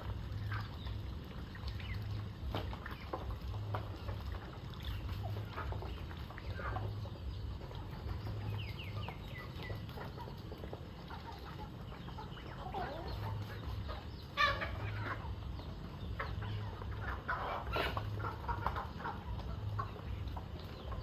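Domestic chickens clucking, with scattered short calls and a louder squawk about two-thirds of the way through, over a low steady hum.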